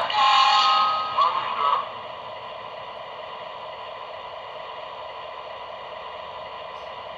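Lionel Railsounds diesel sound effects from the GP38 locomotive's small onboard speaker. A louder, wavering passage in the first two seconds gives way to a steady, even drone of the engine sound.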